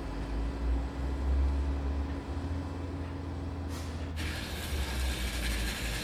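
Backhoe loader's engine running with a steady low rumble. About four seconds in, a steady hiss starts over it and carries on.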